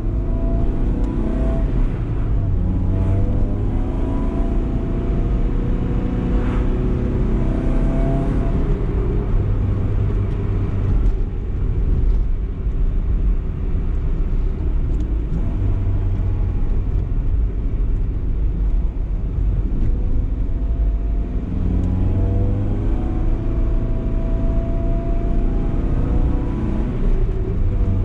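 BMW E30 318is four-cylinder engine pulling through the gears, its note climbing several times in the first eight seconds, then holding steadier for a stretch before climbing again near the end, over constant road rumble.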